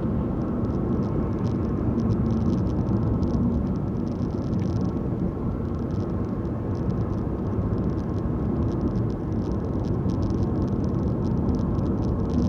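Steady road and engine noise of a car driving along at an even speed, heard from inside the cabin.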